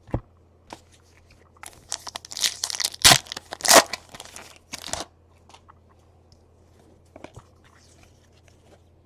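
A foil trading-card pack being torn open, its wrapper crinkling and crackling for a few seconds, followed by a few light clicks of cards being handled.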